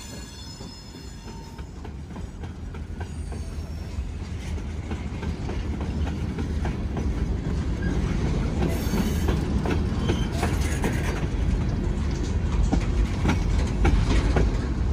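Freight train approaching and rolling past, the low rumble of its locomotive and cars growing steadily louder, with wheels clicking over rail joints and brief flange squeals.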